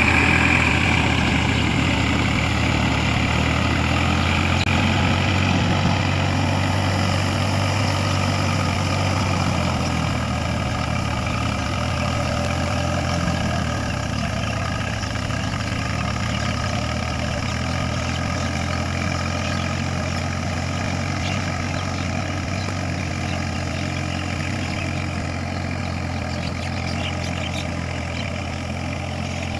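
Tractor diesel engine running steadily at an even pitch, slowly growing fainter.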